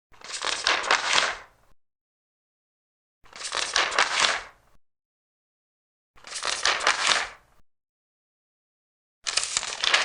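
Large paper pages being turned one at a time: four rustling page turns, each lasting about a second and a half, about three seconds apart, with dead silence between them.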